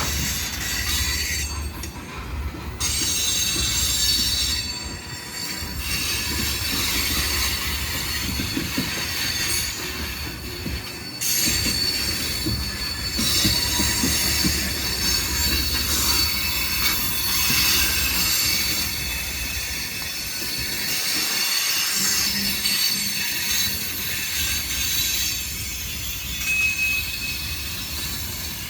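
Freight train cars rolling past with a continuous low rumble and high-pitched wheel squeal that swells and fades as the cars go by.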